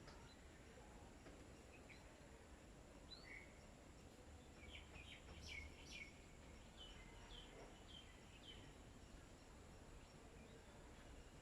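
Faint chirps of small birds: a few scattered short calls, then a quicker run of chirps in the middle, over low steady background rumble.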